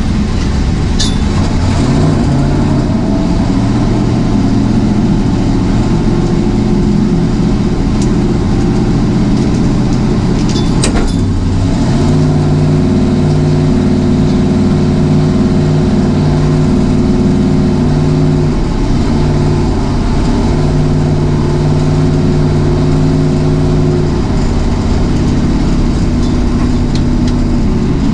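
A vehicle engine running steadily at a low, even speed, its pitch stepping to a new level a few times, with a few faint ticks.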